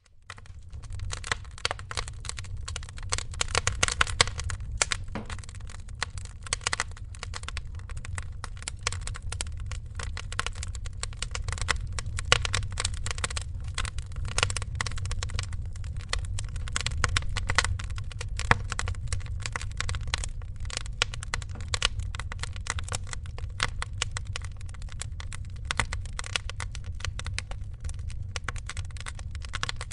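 Wood fire crackling in a fireplace: a dense run of sharp snaps and a few louder pops over a low, steady rumble of flame. It fades in at the start.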